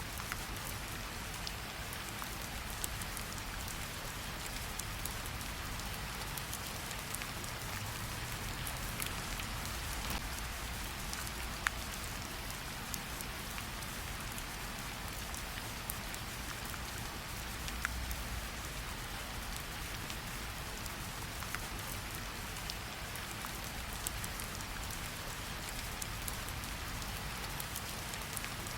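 Steady gentle rain pattering on tree leaves, with scattered individual drops ticking sharply, the clearest about twelve and eighteen seconds in.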